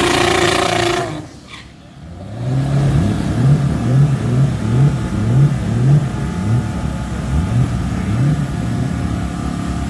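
Drag car engine noise that cuts off abruptly about a second in; after a brief lull, an engine is revved in quick, repeated short blips, each a rising sweep, about two a second.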